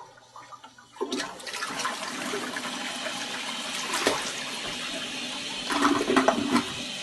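Toilet flushing: a steady rush of water that starts about a second in, with a few knocks partway through.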